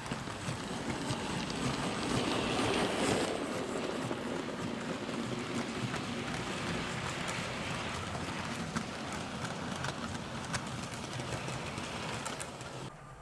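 00 gauge model locomotive with a K's motor running along the track hauling a rake of coaches: a steady rolling rumble of motor and wheels with light clicks at the rail joints. It is loudest about three seconds in and drops off suddenly near the end.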